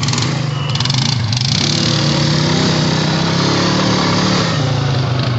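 ATV engine running while the quad rides a wooded trail, its pitch rising a little with the throttle through the middle, over wind and trail noise.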